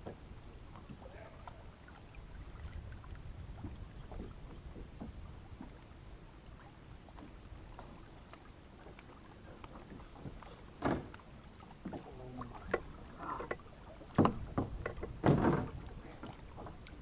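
Low rumble of wind and water on a fishing kayak, then several sharp knocks and clatters of gear against the kayak, the loudest near the end.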